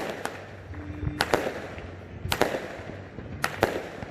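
Fireworks going off: a series of sharp bangs, mostly in pairs, about one pair a second, each with a short echo.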